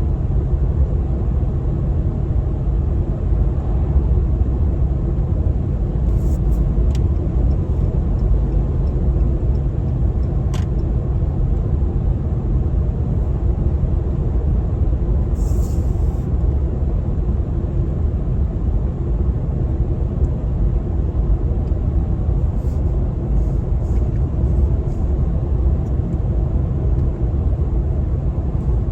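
Pickup truck driving at cruising speed: a steady low road and engine rumble, with a few light clicks over it.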